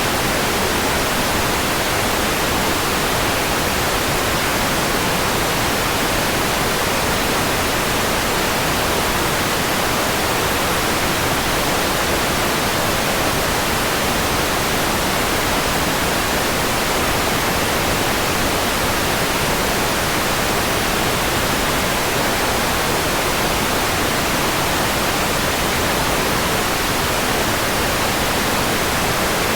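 Steady electronic white noise: an even, unbroken hiss spread across the whole range from low to very high pitch, with no change in level.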